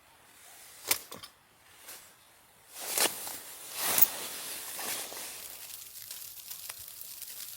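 A few clicks and rustles, then two loud rushing surges as food goes into a hot pan, settling into steady sizzling.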